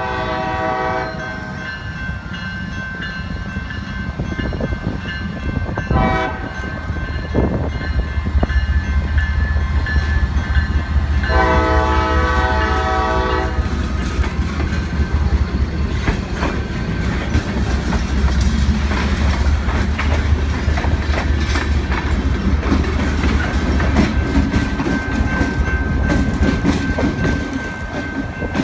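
Diesel-electric trains passing close by, with a steady low engine rumble and wheels clicking over the rail joints. A locomotive air horn sounds a blast that ends about a second in, a short toot about six seconds in, and a longer blast of about two seconds around eleven to thirteen seconds in.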